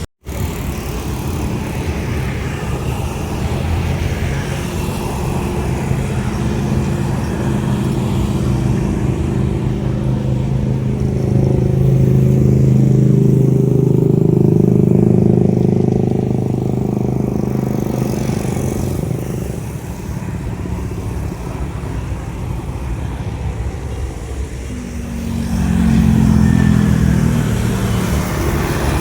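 Singapore Airlines jet airliner taking off, its engines at takeoff thrust giving a loud, steady rumble that builds to its loudest in the middle and then eases off. A second, shorter swell of engine sound rises near the end.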